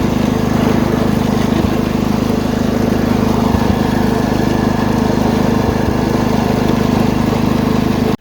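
Wheel Horse 310-8 garden tractor's single-cylinder Kohler engine running steadily at speed, with an even low drone and no change in pitch, as the tractor mows.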